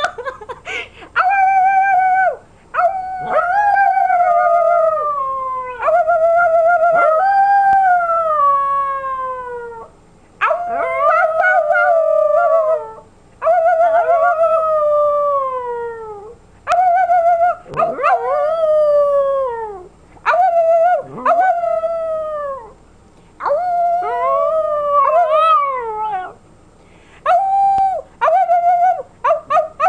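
Puppy of almost 11 months howling over and over, imitating its owner's howl. The howls come one after another with short breaks between them. Each is a long, sometimes wavering howl that slides down in pitch at its end.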